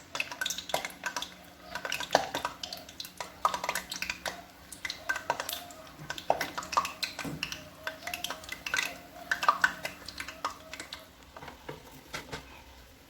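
Metal utensils clinking and scraping against dishes, in many sharp, irregular clinks, some with a short ring.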